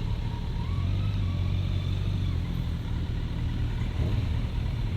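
Motor vehicle running: a steady low engine and road rumble.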